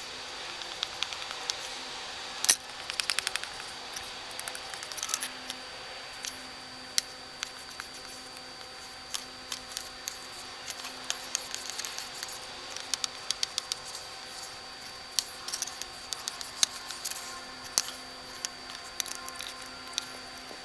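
Small clicks and scrapes of a spatula mixing two-part JB Weld epoxy on a piece of laminate flooring, with a quick run of ticks about three seconds in, over a faint steady hum.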